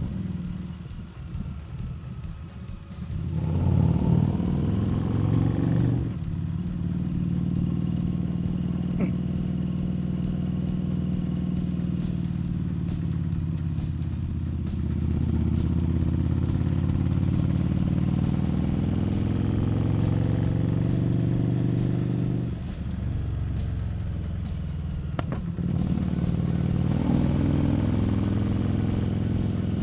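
Harley-Davidson Street Rod 750's liquid-cooled V-twin engine running steadily under way. It is quieter for the first few seconds, then the throttle opens about three and a half seconds in. The engine note dips briefly twice near the end.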